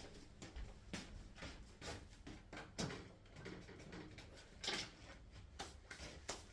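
Kitchen clatter: a run of irregular light knocks and clicks as things are moved about and set down, the loudest about three-quarters of the way through.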